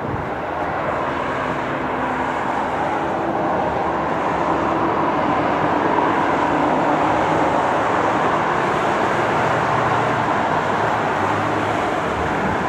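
Train passing by, a steady rumble and rush of noise that builds slightly over the first few seconds and then holds.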